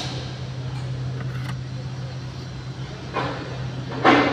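Hyundai Accent engine idling with a steady low hum. A brief louder rush of noise comes near the end.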